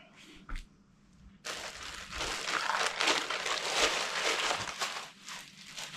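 Packaging crinkling and rustling as it is handled and unwrapped, for about four seconds starting about a second and a half in, with a few light clicks before it.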